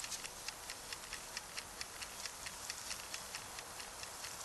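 Kitchen knife chopping vegetables on a cutting board in a quick, steady rhythm of about four to five strokes a second.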